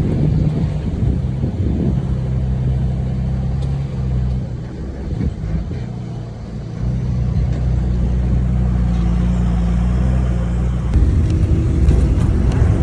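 A motor vehicle's engine running steadily, its note easing off for a couple of seconds near the middle, then picking up again.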